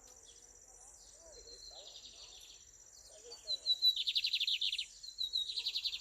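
Lined seedeater (bigodinho) singing its 'ranca-toco' song: twice, a few quick high notes run into a dense, buzzy trill, the first phrase starting a little past halfway and the second near the end. A steady high insect-like hiss runs underneath.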